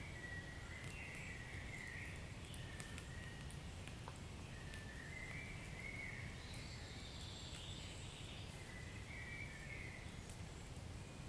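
Wood fire burning in a fireplace: a low steady rumble of flames with scattered sharp crackles and pops, and several high, wavering whistles a second or so long.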